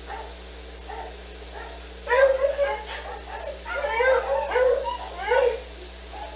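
A dog whining and yipping in a run of short, high-pitched whimpers that start about two seconds in.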